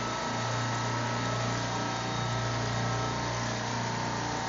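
Supermarket refrigeration compressor rack running: a steady machine hum with a strong low tone and constant hiss, unchanging throughout.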